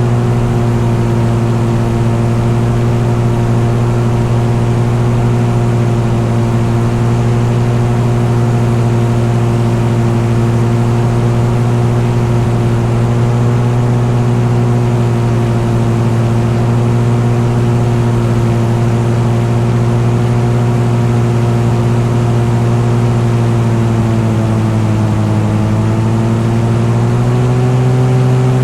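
Engine running at a steady drone, its pitch sagging a little near the end and then coming back up.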